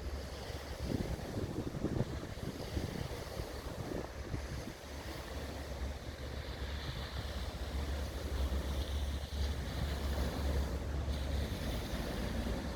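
Wind buffeting the microphone over the steady low drone and water wash of a Border Force patrol cutter under way.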